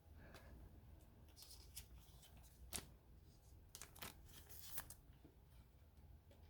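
Faint rustling and soft ticks of 2021-22 Upper Deck Credentials hockey trading cards being slid and flipped through by hand, a handful of light ticks scattered through, the sharpest a little under three seconds in.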